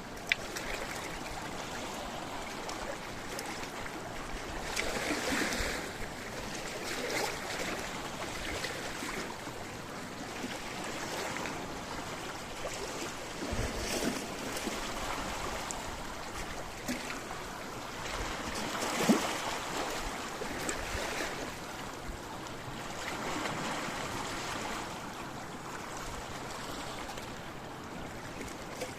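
Small sea waves washing and splashing against rocks, swelling every few seconds, with a few sharp splashes or clicks among them.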